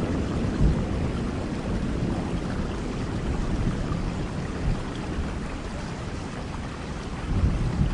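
Thunderstorm: steady rain with a low rumble of thunder that slowly dies away, swelling slightly again near the end.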